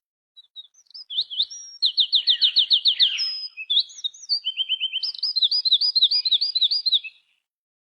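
A songbird of unknown species singing a varied song that resembles an oriental magpie-robin's: a few short chips, then a rapid run of about ten repeated sweeping whistles, more varied notes, and a second fast run of looping whistles that stops about seven seconds in.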